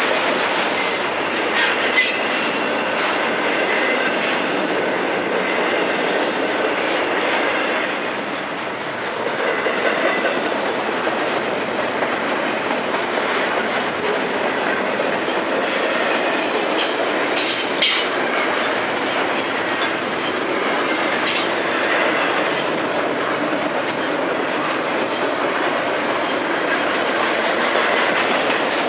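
Double-stack intermodal container train rolling steadily past on well cars: a constant rumble of steel wheels on rail, with brief high-pitched wheel squeals and clicks now and then.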